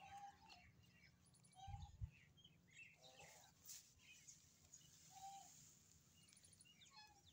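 Faint chirping of small birds, many short calls scattered throughout, with a brief low thump about two seconds in.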